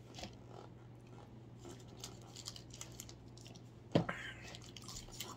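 Faint close-up chewing of a chewy malted-chocolate Nestlé Lolo candy bar, soft mouth clicks and crackles over a low steady hum. A single short thump about four seconds in.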